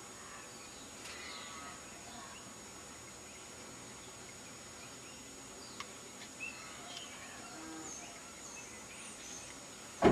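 Quiet outdoor background with faint bird chirps and a thin steady high insect-like tone. A single sharp knock comes right at the end.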